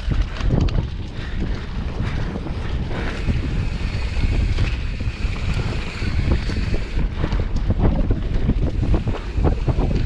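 Wind buffeting the microphone, a steady low rumble that rises and falls in gusts.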